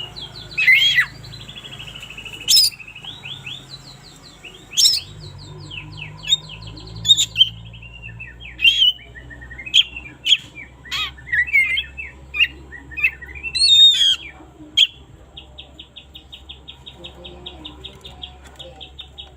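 Oriental magpie-robin (kacer) singing loud, varied whistled notes that sweep up and down in pitch. About three quarters of the way through it switches to a fast, even run of short repeated notes.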